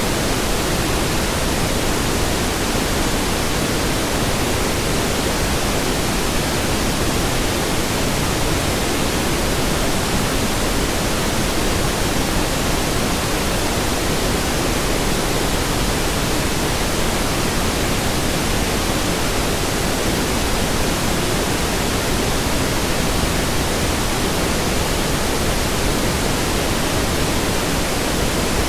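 Steady pink noise: an even, unchanging hiss across all pitches, weighted toward the low end.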